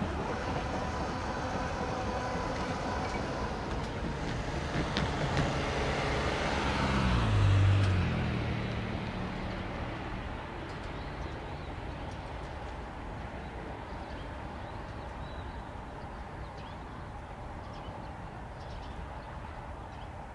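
Tobu 70090 series electric train's running noise fading away along the track. About seven seconds in, a vehicle goes by close, its low drone swelling and dropping in pitch as it passes. Then only a faint, steadily fading background rumble is left.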